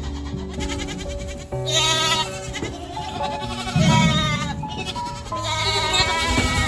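Goats bleating: three long, wavering calls, over background music.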